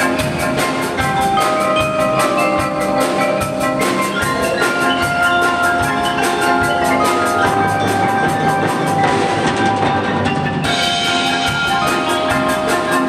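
Live ensemble music: a melody in held pitched notes over a steady beat of about four strokes a second.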